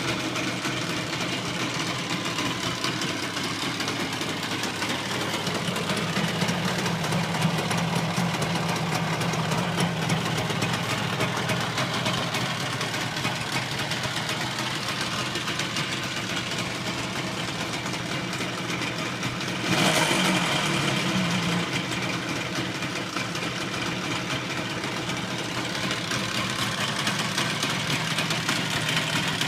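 Suzuki RG250E two-stroke twin idling steadily, a little low, which may be because it is not yet warmed up. About twenty seconds in it suddenly gets louder and settles back over a couple of seconds.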